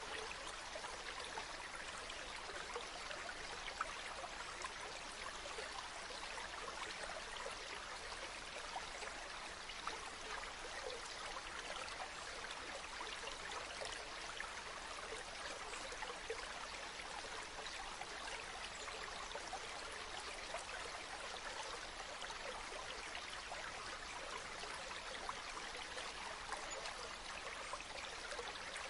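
Running water flowing steadily in an even rush, with fine splashing and trickling detail.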